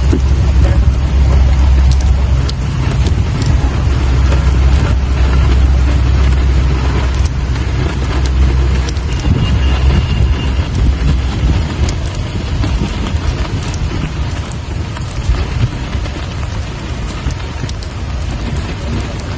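Rain falling steadily, an even hiss dotted with many sharp individual drop ticks. A deep low rumble underlies the first half and fades out about halfway through.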